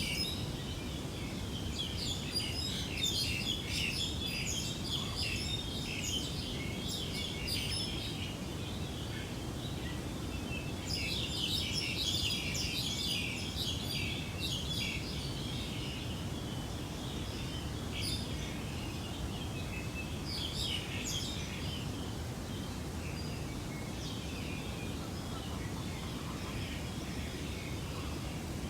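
Small birds chirping and twittering in busy clusters that come and go, thinning out in the later part, over a steady low background rumble.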